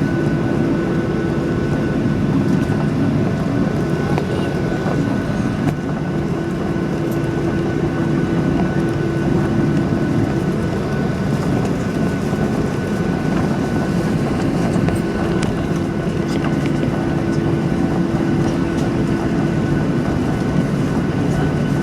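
Steady cabin noise inside a Ryanair Boeing 737-800 with its CFM56 jet engines running: an even rush with a low hum and a thin, high whine, holding level throughout.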